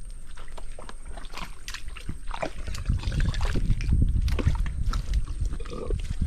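Sloshing and squelching in mud and shallow water, with many short clicks and splashes, growing louder about halfway through.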